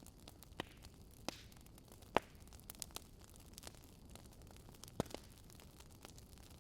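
Wood fire crackling: irregular sharp pops and snaps, the loudest about two seconds in and another near five seconds, over a faint steady low rumble.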